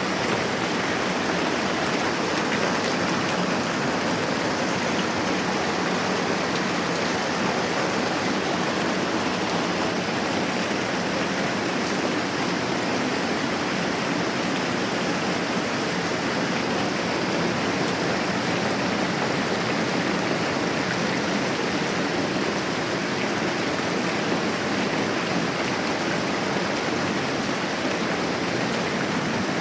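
Steady moderate rain falling, an even hiss with no let-up.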